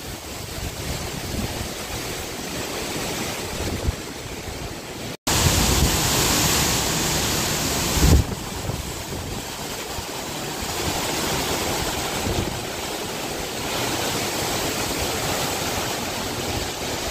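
Hurricane-force wind blowing in gusts, a steady rushing noise with low rumbles where gusts buffet the microphone, strongest about eight seconds in. The sound drops out for an instant about five seconds in and comes back louder.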